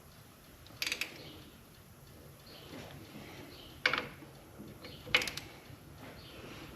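Hand ratchet and socket on the cylinder head bolts of a 1927 Dodge Brothers four-cylinder engine: three short bursts of sharp metallic clicks, about a second in, near four seconds and just after five seconds, as the head bolts are tightened down in sequence.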